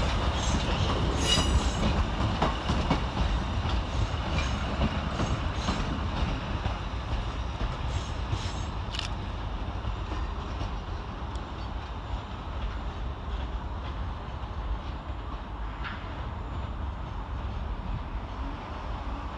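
ScotRail Class 380 electric and Class 156 diesel multiple units pulling out of the station together: a low rumble with wheels clicking over the rail joints and pointwork and a brief squeal in the first seconds. The sound fades steadily as the trains draw away.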